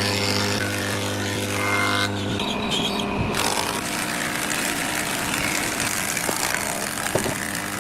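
A motor hums steadily and cuts out about two and a half seconds in. A steady toneless noise carries on after it, with a few faint ticks.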